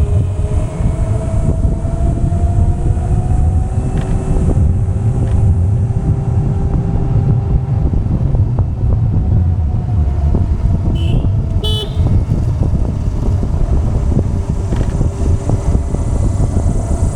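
Vehicle engine running on the move, with low road and wind rumble and a slowly shifting engine tone. A short horn beep sounds about twelve seconds in.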